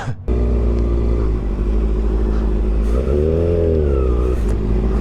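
A vehicle engine running steadily at idle, revved once about three seconds in, its pitch rising and falling back to idle.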